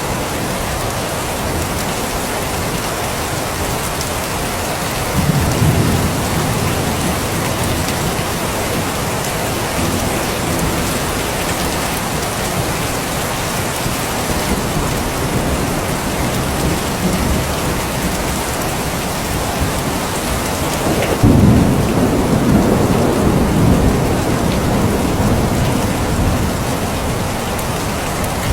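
Steady rain falling, with two low rolls of thunder: one about five seconds in, and a sharper, louder one about two-thirds of the way through that rumbles on for a few seconds.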